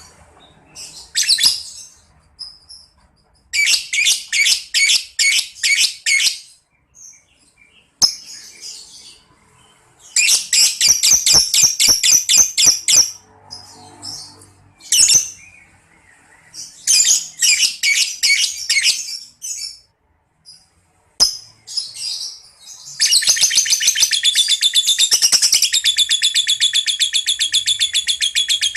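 Lovebird singing: several bursts of rapid, high-pitched chirps, then near the end one long unbroken trill, the 'ngekek' song that lovebird keepers train for.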